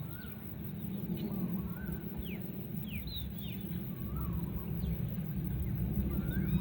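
Birds chirping: many short, thin notes, some sweeping quickly downward and some rising and falling, scattered throughout over a steady low rumble.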